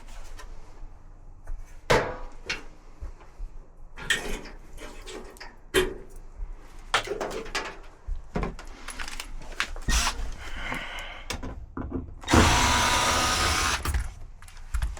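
Handling knocks and clicks of tools and dryer parts, then a power drill/driver running for about a second and a half near the end, the loudest sound, as screws come out during dryer disassembly.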